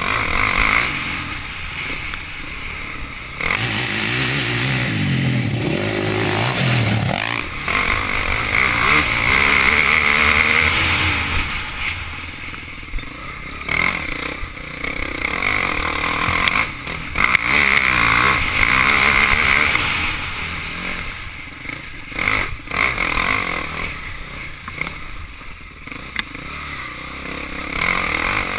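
Off-road motorcycle engine heard on board as it rides a rough forest trail, revving up and easing off again and again, with a long rising rev a few seconds in.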